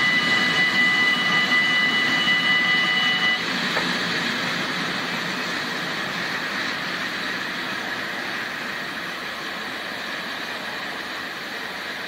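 A freight train of tank wagons rolling past and away, its wheels on the rails making a broad rumble that slowly fades. A steady high ringing tone sounds over it until about three seconds in, then stops suddenly.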